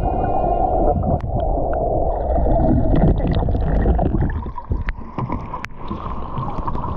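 Rushing river water splashing around a canoe in fast current, with a heavy low rumble on the microphone.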